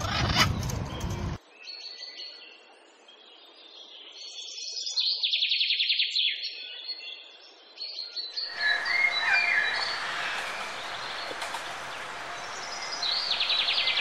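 Small birds chirping, with a fast trill of rapid high notes about five seconds in and another near the end. The first second or so carries louder voices, which cut off abruptly.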